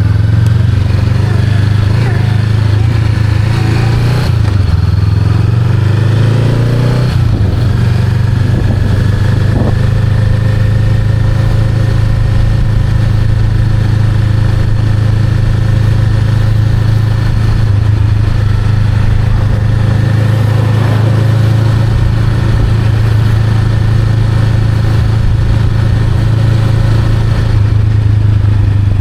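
Honda Rebel 500's parallel-twin engine running on the road. Its pitch rises and falls over the first several seconds, then holds steady at an even cruise.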